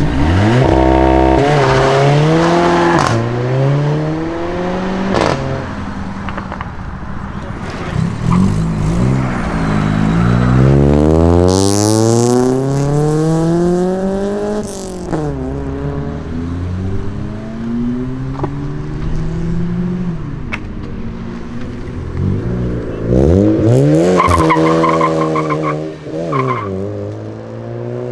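Modified cars' engines revving and accelerating away hard. The engine pitch climbs in repeated sweeps and drops back at gear changes, with one long climb in the middle and another strong rise near the end.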